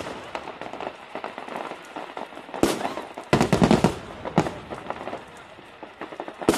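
Fireworks going off: several sharp bangs with scattered crackling between them, and a dense run of rapid crackles about three and a half seconds in.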